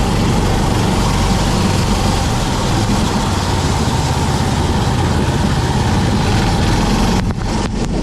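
Kart engine running steadily at a low, even pitch. About seven seconds in there are a few short knocks and a brief drop in level.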